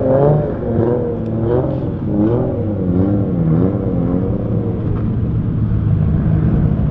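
BMW E36 328i's straight-six engine revving during drifting, its revs rising and falling over and over for the first few seconds, then holding steadier.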